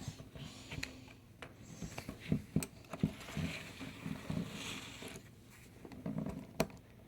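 Plastic Lego pieces and figures being handled on a Lego model: scattered small clicks and taps with soft rustling.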